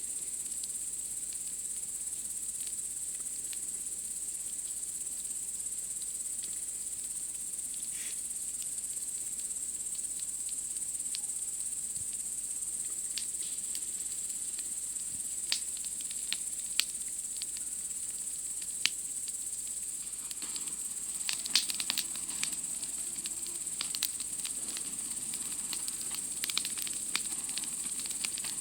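A steady, high-pitched chorus of night insects, with a campfire crackling and popping in sharp, scattered snaps that come thicker about two-thirds of the way through.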